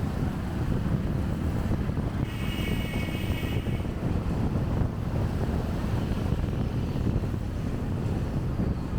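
Motorbike riding through city traffic, with a steady engine rumble and wind buffeting the chest-mounted microphone. A brief high-pitched tone with several stacked pitches sounds for about a second and a half, a couple of seconds in.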